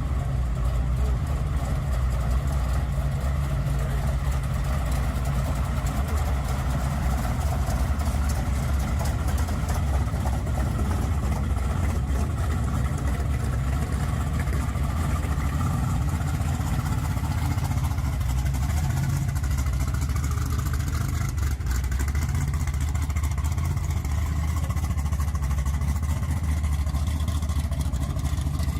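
Car engine idling with a steady, deep exhaust rumble.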